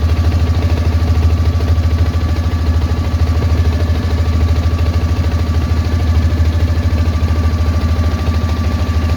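Tour boat's engine running steadily: a loud low throb with a fine even pulse and a thin steady whine above it.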